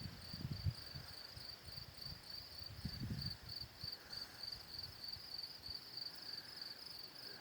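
Crickets chirping in a steady, evenly pulsing high trill, with a couple of low rumbles about half a second and three seconds in.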